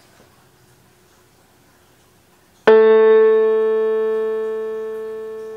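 A single keyboard note, the A at 220 hertz, struck once about two and a half seconds in and ringing out with a slow, even decay.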